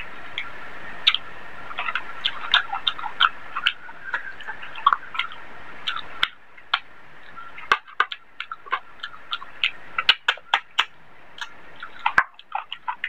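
Close-miked chewing of a mouthful of rice and chicken curry: irregular wet mouth clicks and lip smacks, several a second, with brief lulls.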